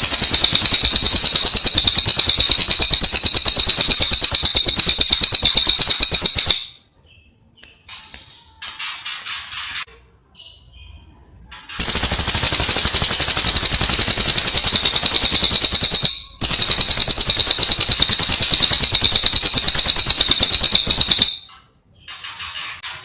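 Cililin songbird in full song: loud, very rapid, even trills held for several seconds at a time, three long bouts in all, with softer short calls in the gaps between them.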